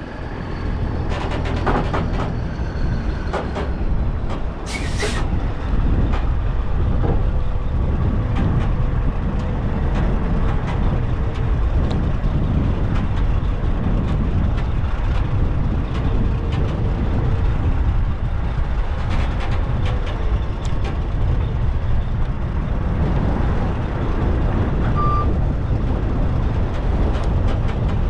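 Strong wind buffeting the microphone in a steady low rumble, with heavy trucks running underneath. There are a few sharp metallic knocks in the first five seconds and a short beep near the end.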